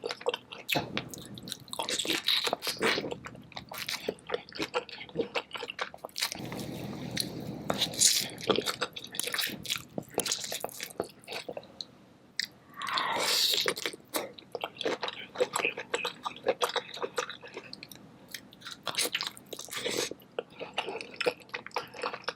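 Close-miked eating of a saucy king crab seafood boil: wet biting, chewing and smacking with crunchy clicks throughout, and one longer continuous wet sound about halfway through.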